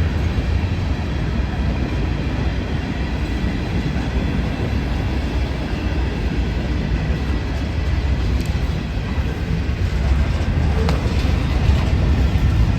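A train rolling past with a steady, loud low rumble of wheels on the rails.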